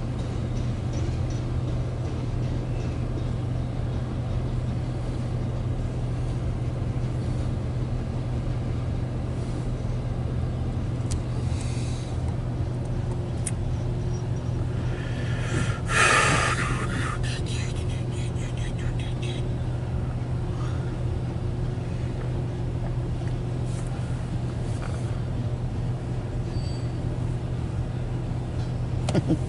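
Loaded CSX coal train of hopper cars rolling past a grade crossing, heard from inside a stopped car as a steady low rumble. About 16 seconds in there is a brief, louder hiss.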